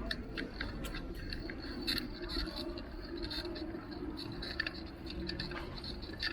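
Riding noise from a bicycle on a city street: a steady rumble of wind and traffic, with frequent small clicks and rattles from the bike.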